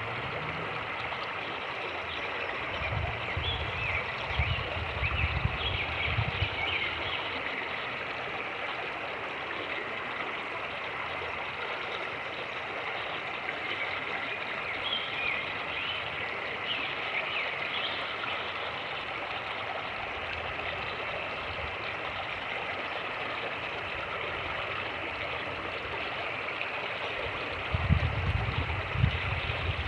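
Fast-moving creek rushing and gurgling steadily. Low wind buffeting on the microphone comes through a few seconds in and again near the end.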